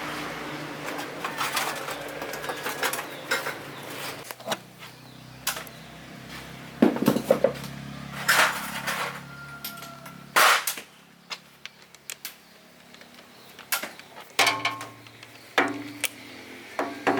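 Irregular metallic clinks, taps and knocks, like hand tools and metal parts being picked up, set down and struck during repair work, with a low steady hum under the first few seconds.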